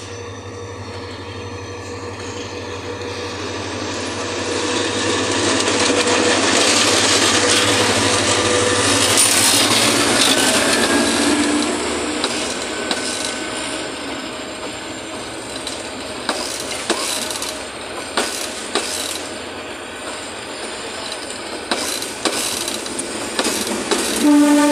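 Diesel locomotive hauling a passenger train approaches and passes close by, its engine rumble growing loudest about seven to eleven seconds in. The coaches then roll past with wheels clicking over the rail joints, and a train horn starts sounding right at the end.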